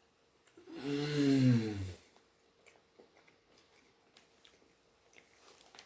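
A man's breathy groan, a bit over a second long and falling in pitch, as he reacts to the heat of a spicy salami stick, followed by faint small clicks.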